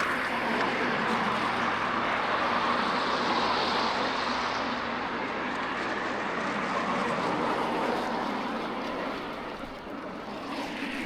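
A passing vehicle: a steady rushing noise that holds and then eases off somewhat near the end.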